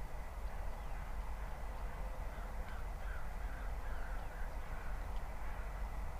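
A bird calling several times in quick succession, over a steady low rumble.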